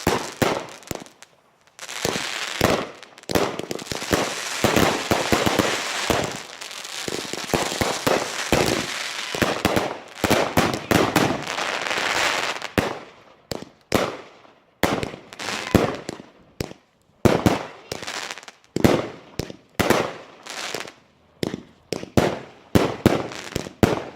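Fireworks bursting. For the first half there is a dense run of overlapping bangs and crackle, then separate sharp bangs follow roughly once a second.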